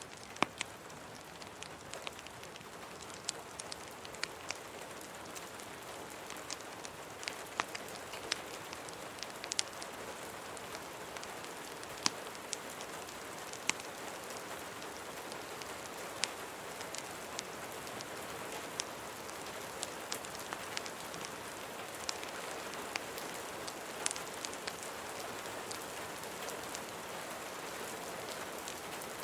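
Steady rain ambience, a continuous hiss dotted with scattered sharp pops and ticks from a crackling fireplace mixed in. It swells up from quiet at the start.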